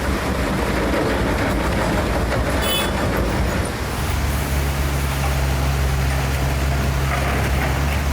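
A heavy machine's engine running under a loud, noisy rumble. About four seconds in, a steady low drone from the engine becomes stronger.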